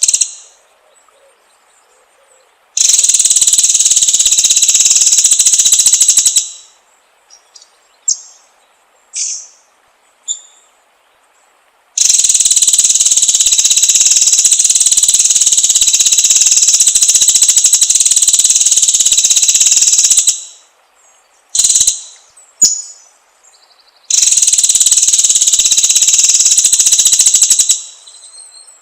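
A songbird recording of three long, rapid, high-pitched trills, each several seconds long and cutting off abruptly, with short single call notes in the gaps between them.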